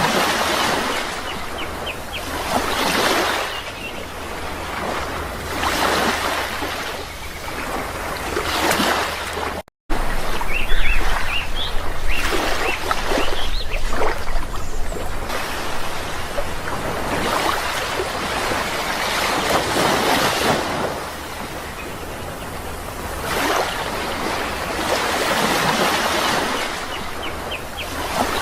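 Sea waves surging and washing back in repeated swells every few seconds, with a few short bird chirps. The sound cuts out for a moment about a third of the way in, then the waves carry on.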